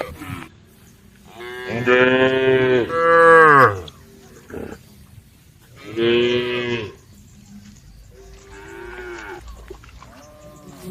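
A cow mooing repeatedly. There is a loud two-part moo about two seconds in, another loud moo about three seconds later, then two fainter, shorter moos near the end.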